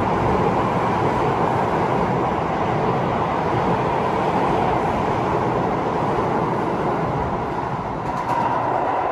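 Keio Line train passing through an underground station without stopping, a steady, loud rumble of wheels on rail.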